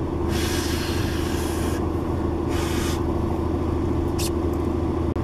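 RB20DET turbocharged straight-six running with a steady drone, heard from inside the 240SX's cabin through a nearly straight-piped exhaust with a test pipe and a rear muffler. Two spells of hissing noise rise over it, the first about a second and a half long, the second shorter.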